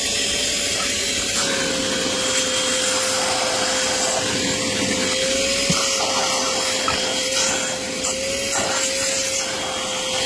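Vacmaster VOM205P 2.5-gallon wet/dry vac running steadily with a constant whine, wet-sucking soapy water out of a car seat through an extraction attachment. The rush of air changes now and then as the nozzle is worked over the wet upholstery.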